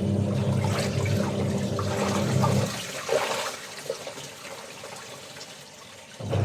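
Washing machine motor humming as it churns the water, then stopping about two and a half seconds in. Water sloshes and trickles during the pause, and the motor starts again near the end, in the on-off rhythm of a wash cycle.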